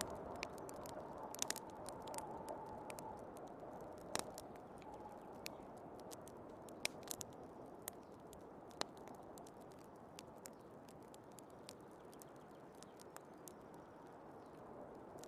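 Wood fire crackling with irregular sharp pops, over the steady hiss of snowstorm wind.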